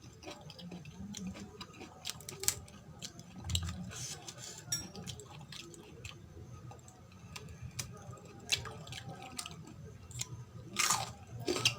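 Close-miked chewing and wet mouth sounds of someone eating curry and rice: irregular soft clicks and squishes, with one louder, sharper sound near the end.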